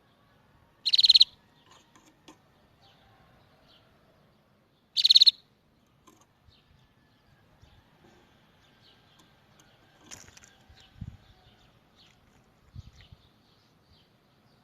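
Canary song: two short, loud trills about four seconds apart, each under half a second of rapid high notes, with faint scattered chirps between them and a softer trill about ten seconds in.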